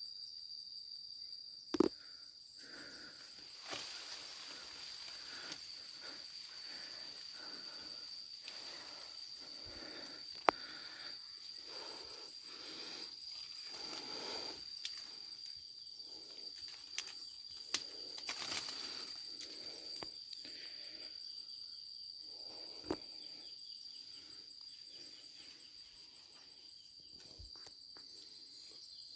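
Insects, likely crickets, trilling steadily on one high pitch. Over it come intermittent rustling and about five sharp clicks or snaps, the loudest near the start, around ten seconds in, and near seventeen and twenty-three seconds.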